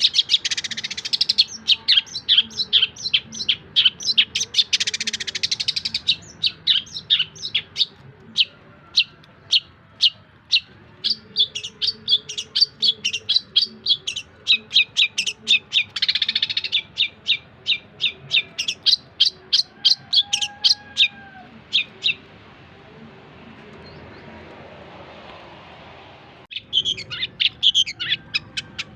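Long-tailed shrike (cendet) singing a fast run of sharp chirps and trills. It breaks off for a few seconds about three quarters of the way in, then starts again abruptly near the end.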